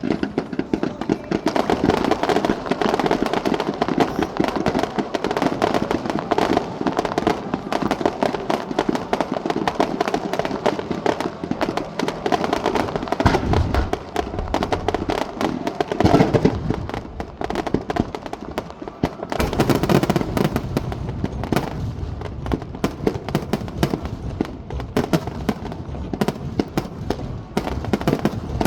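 A fireworks barrage (star mine) firing without a pause: a dense, rapid crackle of shell bursts and reports. Deeper booms stand out about 13, 16 and 20 seconds in.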